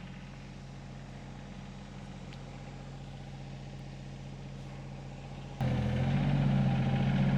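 Diesel engine of a SANY excavator idling steadily, then about five and a half seconds in it jumps sharply louder and runs on at higher throttle as the machine is readied to move and dig.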